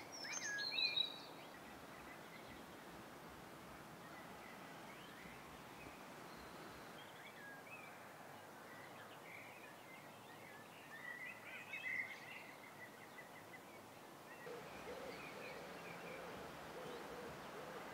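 Quiet outdoor background with small birds chirping and singing: a flurry of sharp chirps at the start and more chirping about eleven to twelve seconds in. A lower, wavering bird call joins near the end.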